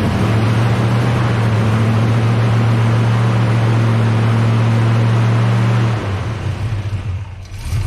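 A Chevrolet ZZ454 big-block V8 with fuel injection runs at a steady idle on its first start. About six seconds in, the steady note breaks up and the sound turns uneven and quieter.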